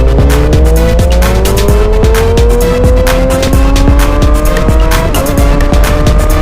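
Motorcycle engine accelerating, its pitch climbing steadily through a gear, with a brief break and slight drop about five seconds in as it shifts up and climbs again. Music with a steady beat and heavy bass plays over it.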